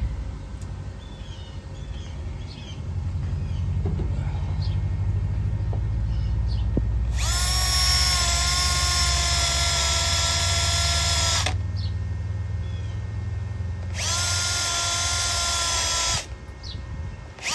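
A handheld power tool runs in two bursts, one of about four seconds and a shorter one of about two seconds, each a steady high whine that holds its pitch. A steady low rumble runs underneath and stops near the end.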